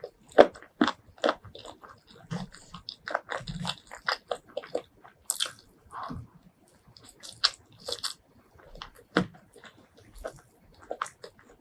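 Close-miked eating: a person biting and chewing food, with crunchy, crackling bites and wet mouth clicks at an uneven pace.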